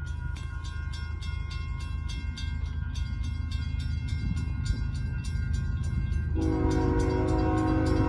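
Approaching freight train led by a GE ES44AC diesel locomotive: a low rumble under a rapid metallic ringing. About six seconds in, the locomotive's horn starts a long blast of several tones sounded together, which grows louder as the train nears.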